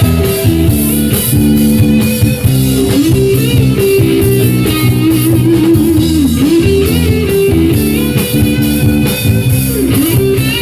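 Live rock band playing an instrumental interlude between verses: a guitar melody with bent, swooping notes over bass, rhythm guitar and drum kit.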